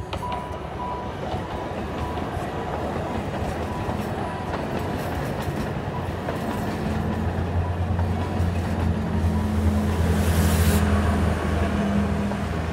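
A large vehicle running: a steady rumble, with a low engine hum that grows louder about halfway through and a short hiss near the end. A beeping tone stops about a second in.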